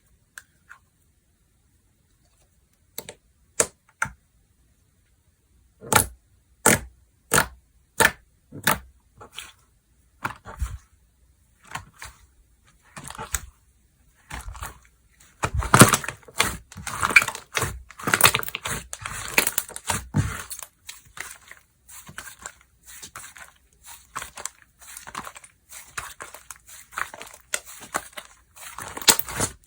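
Slime being played with by hand: a few sharp pops, then a run of snaps about one a second, then, about halfway through, dense crunching and crackling.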